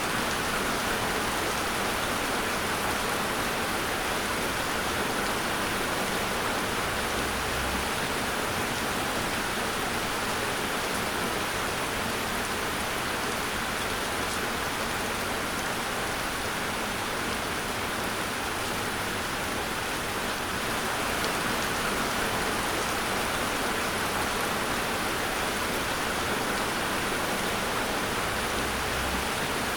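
Steady rain falling, an even hiss of rain on a surface with no distinct drops standing out.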